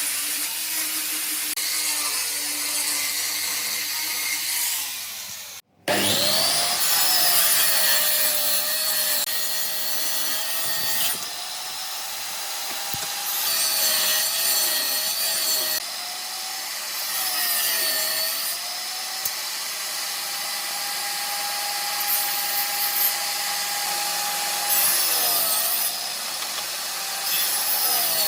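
Electric power tool cutting wood. The motor whine sags in pitch under load and recovers several times. The sound cuts out completely for a moment about six seconds in, after an earlier tool's whine winds down.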